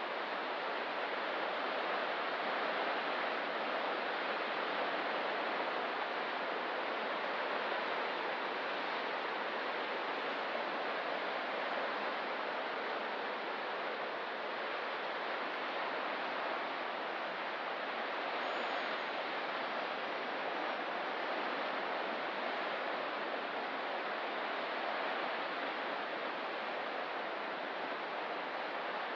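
Ocean surf: a steady wash of breaking waves, with no distinct individual wave crashes.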